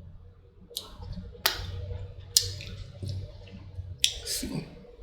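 Close-up eating sounds: a person chewing syrupy pancake, with several short, sharp wet mouth clicks and smacks spread over the few seconds.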